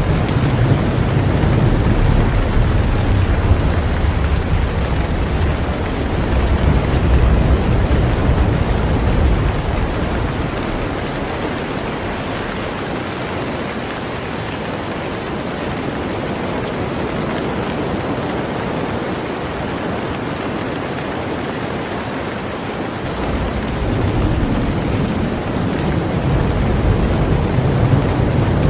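Heavy rain falling steadily on a boat, an even hiss. A low rumble runs under it for the first ten seconds or so, fades, and swells again a few seconds before the end.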